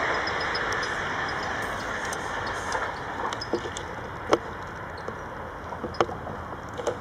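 Electric passenger train running past, its rushing noise fading over the first couple of seconds as it moves away. After that a few sharp clicks or short chirps stand out, the loudest about four seconds in and another about six seconds in.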